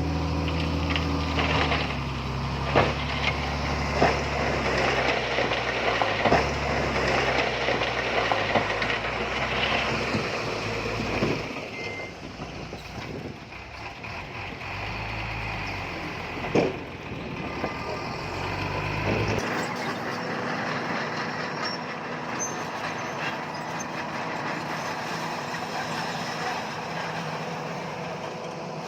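Heavy diesel earthmoving machinery working, its deep engine note shifting in pitch, with sharp metallic clanks every few seconds. About two-thirds of the way through the deep engine note drops away, leaving a lighter, steady running sound.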